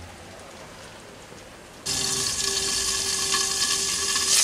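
Stuffed pointed gourds frying in oil in a lidded kadai: a soft sizzle that jumps abruptly louder about two seconds in, with a steady tone running under it from then on.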